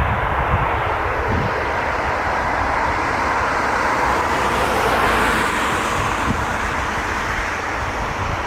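Jet airliner's engines, a broad rushing noise that swells to its loudest about five seconds in and then eases off, over a low rumble.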